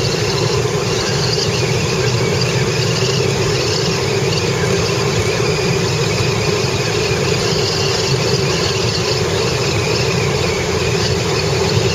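Steady road and wind noise of a car driving, heard from inside the cabin.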